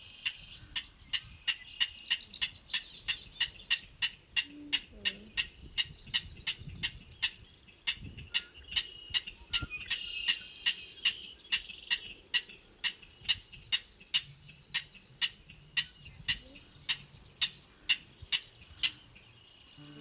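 Outdoor ambience: faint high bird or insect calls, with a steady train of sharp clicks at about two a second throughout.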